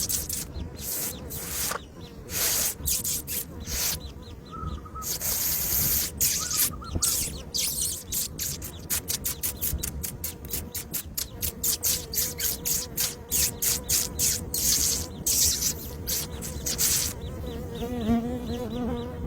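Birds feeding: a run of short, dry clicks and rustles, sparse at first and then several a second in the second half.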